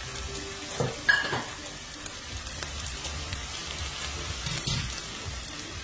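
Plantain slices, onion and green seasoning sizzling steadily in oil in a stainless steel frying pan, with a few brief knocks about a second in.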